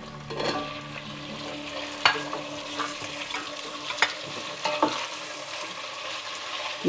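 Oil sizzling in a steel pot as raw potato chunks are tipped in over frying onions and green beans. A wooden spatula then stirs them, knocking against the pot a few times.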